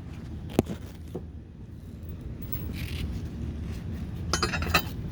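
Metal clinks and light knocks of a steel running-board bracket and its bolts being lined up under the truck: a sharp click about half a second in, then a cluster of rattling clicks near the end, over a low steady hum.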